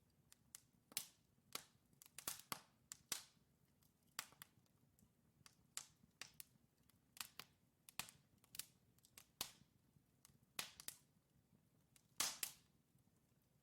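Burning wood logs crackling in a fireplace: irregular sharp pops and snaps, several a second at times, over a faint low hiss of the flames, with a louder cluster of pops near the end.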